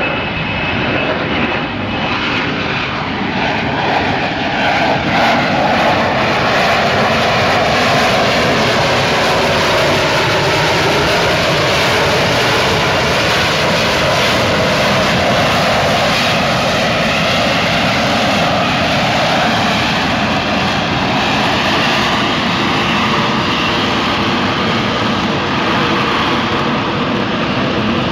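F-35B Lightning II hovering on jet thrust, its F135 engine, shaft-driven lift fan and roll-control nozzles all running at high power. The jet noise is loud and steady, with slow shifts in its tone.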